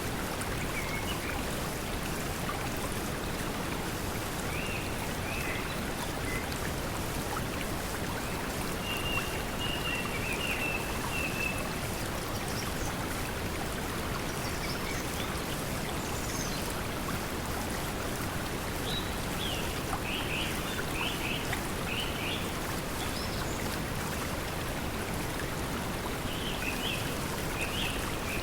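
Steady pink noise blended with flowing stream water, under occasional short, high bird chirps, including a quick run of notes about two-thirds of the way through.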